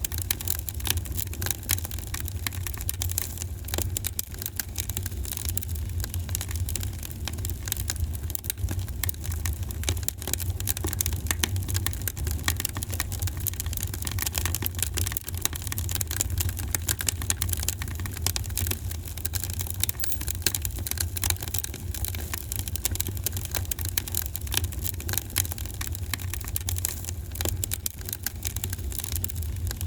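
Fireplace fire crackling: a dense, irregular stream of small pops and snaps over a steady low rumble.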